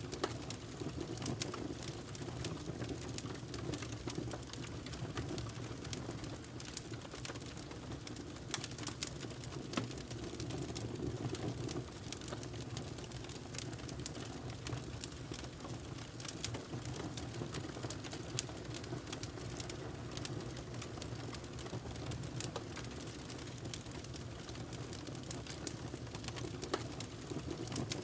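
Wood fire burning in a fireplace, with frequent irregular crackles and sharp pops of burning logs over a steady low rumble of the flames.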